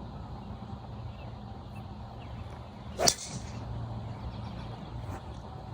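A golf driver striking the ball: one sharp, loud crack with a brief high ringing ping, about three seconds in, against a steady low hum.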